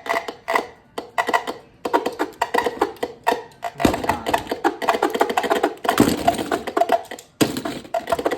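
Beyblade X spinning tops clattering and clashing in a plastic battle stadium: a quick, dense rattle of clicks and knocks over a steady ringing spin, with heavier hits about four, six and seven seconds in.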